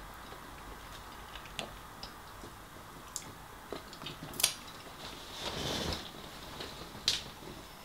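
Close-miked eating sounds: a man chewing with scattered small mouth clicks and smacks, a sharper click about four and a half seconds in and a short noisy swell around five and a half seconds.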